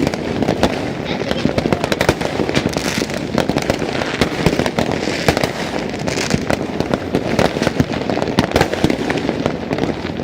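Dense New Year's Eve fireworks: a continuous barrage of overlapping bangs and crackles, many reports a second, with no break.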